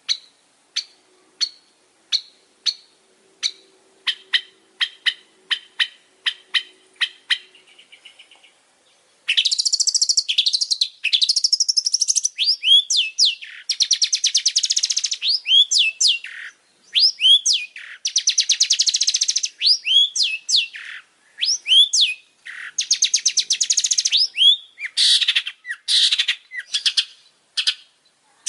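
Long-tailed shrike (pentet) singing: a series of sharp single notes that quicken, then from about nine seconds a loud, rapid chattering song in long bursts laced with down-slurred whistles.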